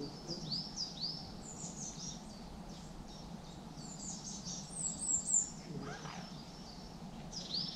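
Several small birds singing in the surrounding trees, a run of quick, high chirps and sweeping notes, over a faint steady low rumble.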